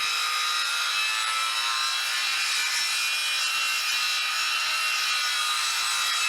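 Power tool cutting steel channel for new trailer crossmembers, running steadily with a high-pitched, even whine.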